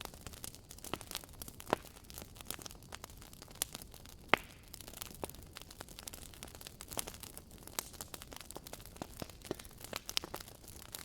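Wood fire crackling: irregular sharp pops and snaps over a faint hiss, with one louder pop about four seconds in.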